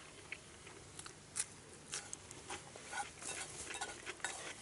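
Wood crackling in a campfire: faint, irregular sharp snaps and pops.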